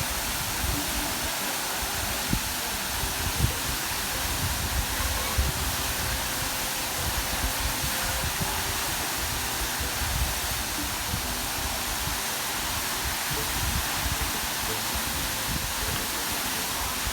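Waterfall: a steady, even rush of falling water, with uneven low thumps underneath, the sharpest a couple of seconds in.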